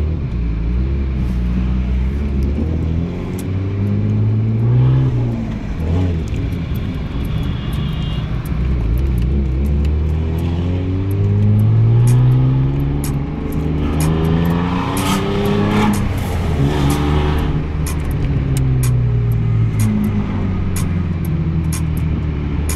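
A car's engine heard from inside the cabin while driving in traffic. Its pitch rises several times as the car speeds up and falls back as it slows, over a steady low road rumble.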